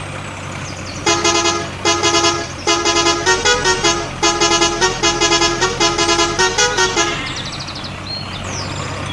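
A musical vehicle horn plays a short multi-note tune, pulsing and repeated, from about a second in until about seven seconds in, over a steady engine hum.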